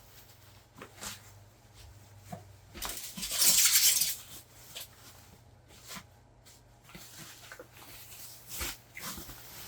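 Objects being handled: scattered light clicks and knocks, with a louder rustle lasting about a second around three and a half seconds in.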